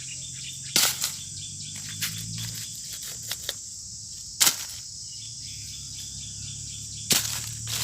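Steady high chirring of insects, with three sharp knocks spread through it, about a second in, in the middle and near the end, and a few fainter clicks.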